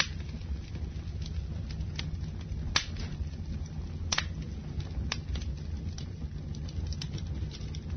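Wood campfire burning with a steady low rumble of flames and irregular sharp crackles and pops from the burning logs, two of them louder about three and four seconds in.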